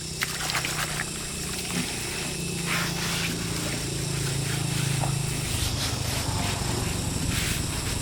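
A small engine running steadily, its note shifting about five and a half seconds in, with scattered light clicks and taps over it.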